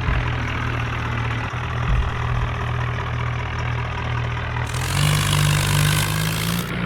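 Tractor engine running steadily, becoming brighter and a little louder about two-thirds of the way through.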